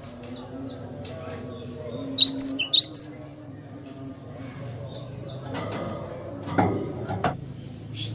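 Glatik batu (cinereous tit) calling: a quick run of four loud, sharp high chirps about two seconds in, with softer chirps scattered through, over a low steady background murmur.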